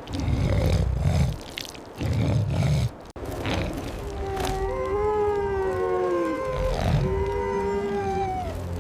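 Two deep animal growls, then several drawn-out howls overlapping one another, each gliding slowly in pitch.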